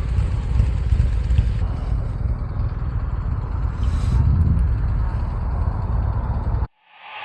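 Motorcycle riding noise: a steady low rumble of engine and wind on the microphone. It cuts off abruptly near the end, and music begins to fade in.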